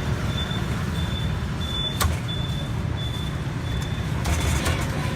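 Road traffic rumbling steadily, with a faint high beep repeating about once every 0.7 seconds, a sharp click about two seconds in and a short clatter near the end.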